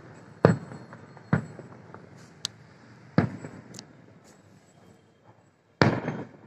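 Aerial firework shells bursting: four loud bangs spread over several seconds, each trailing off in an echo, with a few fainter sharp pops between them.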